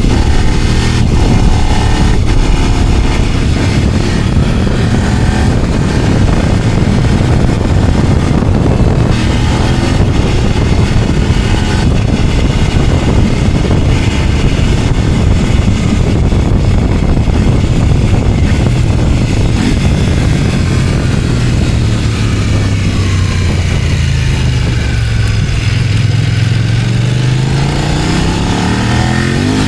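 Kove 800X Pro's parallel-twin engine running under way at modest break-in revs, with wind and road noise. Near the end the revs fall away for a few seconds, then climb again.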